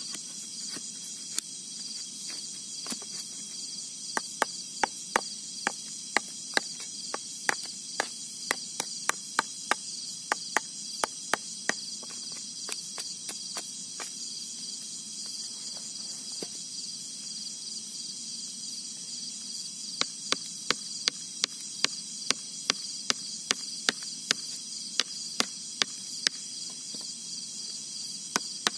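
Steady high insect chorus, with runs of sharp knocks, about two a second, in two stretches separated by a pause of several seconds.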